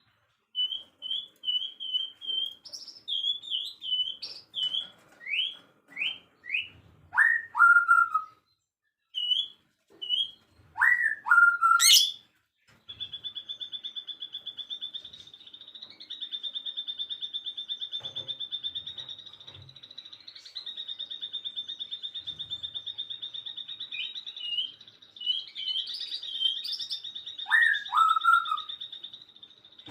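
Songbirds calling: a run of short, high whistled chirps and several loud downslurred whistles that swoop low and turn back up. About halfway in, a continuous fast, high-pitched trill starts and carries on, with more whistles over it near the end.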